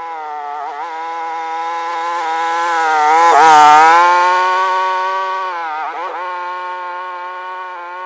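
Engine of a small buggy running steadily as it pulls a chain drag across a field. It grows louder as it passes close by about three and a half seconds in, then fades, with small dips in pitch as the load changes.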